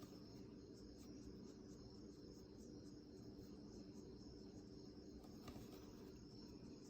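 Near silence: faint room tone with a steady high-pitched whine and a low hum, and one faint click about five and a half seconds in.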